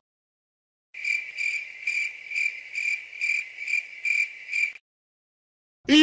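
Cricket chirping sound effect: a steady high-pitched chirp repeated about twice a second, nine times, stopping a second before the end. Just before the end a voice begins a loud shouted 'yeet'.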